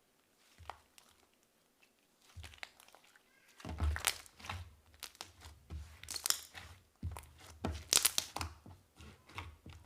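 Slime being pressed and squished by hand, giving off sticky crackling pops and small clicks. It is faint for the first few seconds and turns busy and louder from about four seconds in.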